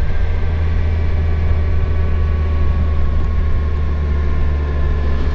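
Kawasaki Versys motorcycle cruising at a steady speed: an even low engine drone with a faint steady whine above it.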